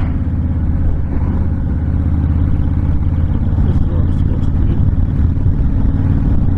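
Honda VTX1300's V-twin engine running steadily at cruising speed, mixed with a low, steady rush of wind on the microphone.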